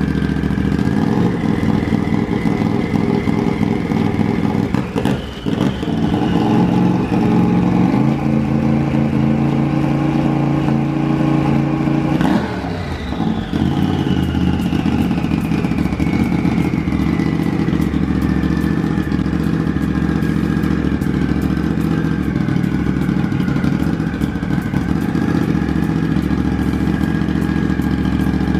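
Turbocharged Polaris RZR 1000 engine running as it warms up after its first start-up. Its speed is held higher and steady for about four seconds in the middle, then drops back to idle, and a high whine falls slowly over the following seconds.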